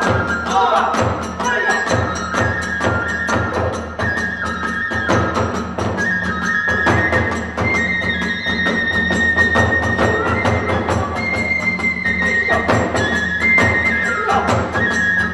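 Kagura hayashi ensemble playing a brisk instrumental passage: a bamboo fue flute holds high notes that step from pitch to pitch over steady beats of drum and hand cymbals, about three a second.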